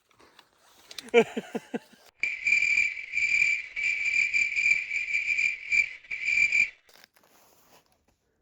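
An insect trilling loudly at a steady high pitch in a run of several long pulses, lasting about four seconds. It is preceded by a single sharp crack about a second in.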